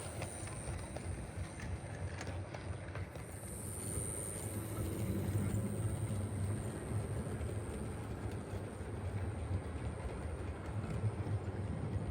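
Brass HO scale CNJ Camelback 4-6-0 model steam locomotive running on track: a steady low motor-and-gear hum with light clicks from the wheels on the rails.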